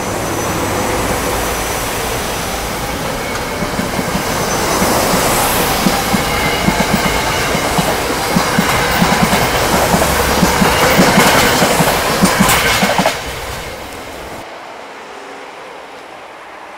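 SEPTA Silverliner IV electric multiple-unit train pulling out and passing close by: a steady rumble with wheels clacking over rail joints in a quick rhythm and a faint high whine, growing louder. About 13 seconds in the last car goes by and the sound drops sharply to a lower rumble as the train moves off.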